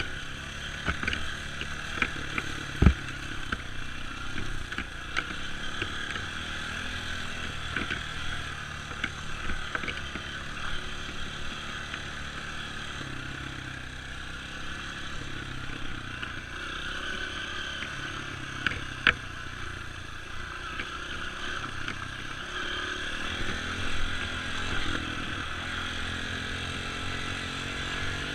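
Dirt bike engine running, its pitch rising and falling with the throttle, with scattered clattering knocks; the loudest knock comes about three seconds in.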